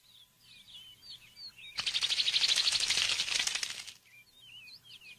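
Small birds chirping in short, high calls, broken in the middle by about two seconds of loud, rapid wing flapping, after which the chirping resumes.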